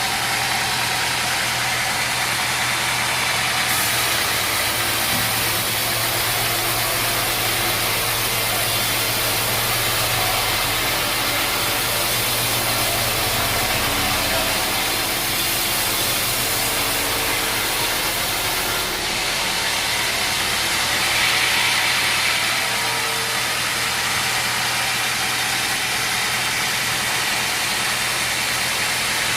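Sawmill machinery running steadily: an engine or motor hum under a broad, even hiss, with small shifts in tone about 4 and 19 seconds in.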